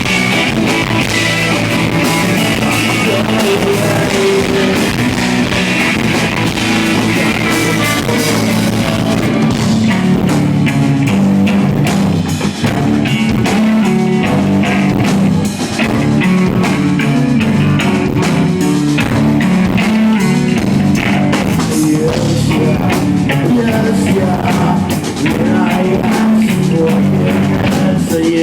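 Live rock band playing loud, with distorted electric guitars and a drum kit. Singing is mixed in, and the sound is roughly captured on a handheld recorder.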